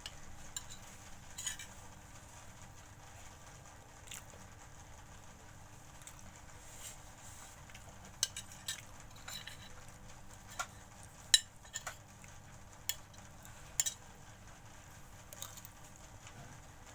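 Cutlery clinking and scraping against a plate of noodles while someone eats: scattered sharp clicks over a faint background, with a few louder clinks in the second half.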